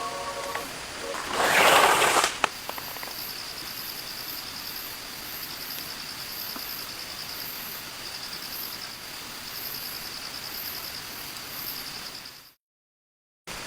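An insect trilling in a steady, evenly pulsing high-pitched pattern over a background hiss, after a loud brief rustle about two seconds in. The sound cuts off to silence about a second before the end.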